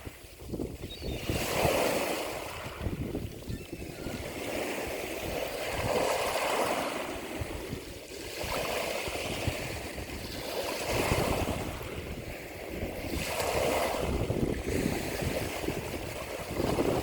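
Ocean waves washing in, swelling and falling back every two to three seconds, with wind rumbling on the microphone.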